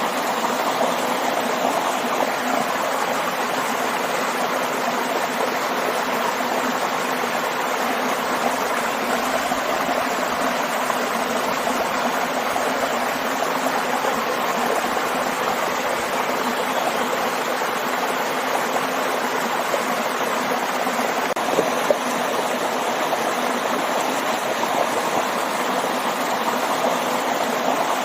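A waterfall and stream of water running, a steady, even rush.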